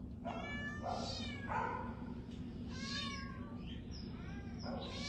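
Domestic cats meowing: about five meows one after another, some rising and falling in pitch, over a steady low hum.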